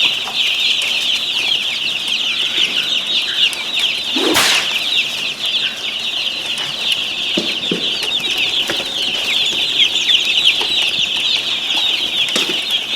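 A crowd of baby chicks peeping continuously, many short falling chirps overlapping, with one brief louder noise about four seconds in.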